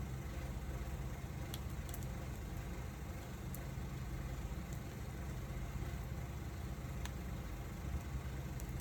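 Wood fire burning, with a few sharp crackles and pops over a steady low rumble.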